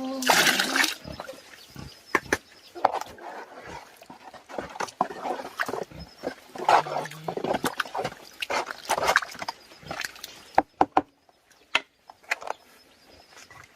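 Pigs grunting in irregular short bursts, with a loud noisy burst about half a second in and a few sharp clicks later on.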